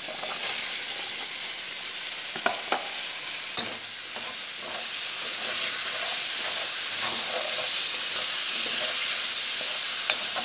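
Chopped onion and tomato sizzling loudly as they hit hot oil in a pan. The sizzle swells about halfway through while a wooden spoon stirs, knocking against the pan a few times.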